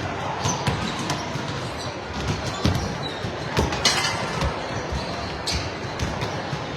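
Busy, echoing gymnasium din during a volleyball game, with sharp ball hits and bounces cutting through; the loudest comes a little under four seconds in.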